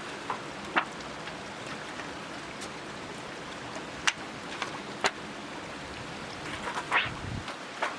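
Metal fire-pit parts clinking and clicking as they are fitted together: a handful of sharp light knocks, the loudest about a second in and near the end, over a steady hiss.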